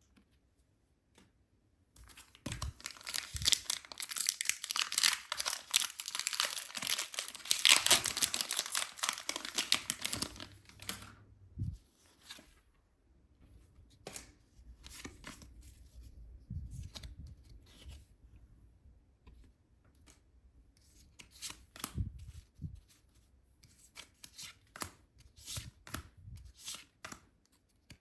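Packaging being torn open with crinkling, for about eight seconds, then scattered rustles and light clicks as the contents are handled.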